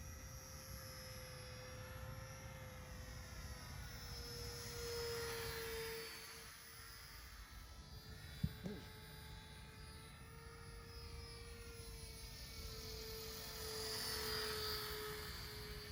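Small radio-controlled model Hurricane's motor and propeller running with a steady hum that wavers slightly in pitch, swelling louder twice as the model passes. A single sharp click about halfway through.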